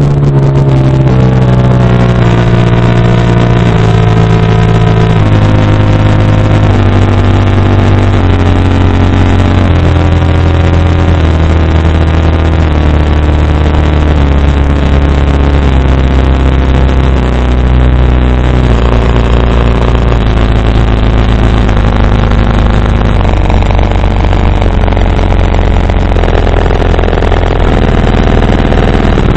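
Two JL Audio 12W6v2 subwoofers playing a loud bass sine sweep that steps down in pitch every second or two, from a low hum to a deep rumble, with strong overtones riding above the tone.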